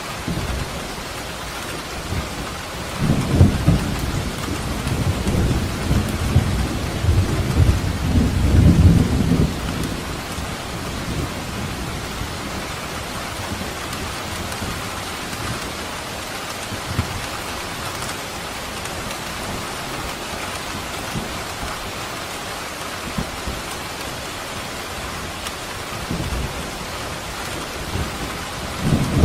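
Steady rain falling, an even hiss throughout. A low rumble of thunder swells about three seconds in and fades about ten seconds in, and another begins rolling near the end.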